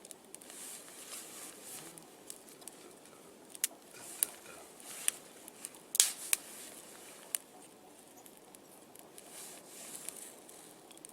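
Small campfire of birch bark and wood-chip kindling just catching, with scattered sharp crackles and snaps as the kindling burns, the loudest about halfway through.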